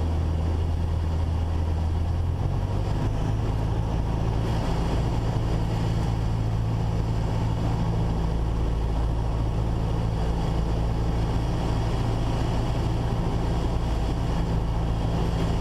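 Cessna 172's four-cylinder Lycoming engine running steadily at reduced power on final approach, a low drone whose pitch shifts slightly about two and a half seconds in.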